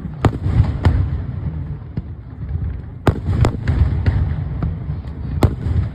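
Aerial fireworks bursting: a series of sharp bangs, about five loud ones, with smaller pops between, over a continuous low rumble of echoing explosions.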